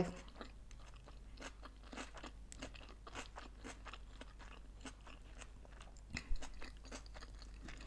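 A person chewing sushi rolls close to the microphone: soft, irregular crunches and wet mouth clicks, several a second, with a slightly stronger crunch about six seconds in.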